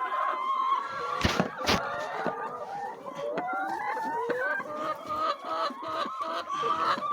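A flock of chickens clucking and calling, many overlapping voices at once. Two sharp knocks come about a second and a half in.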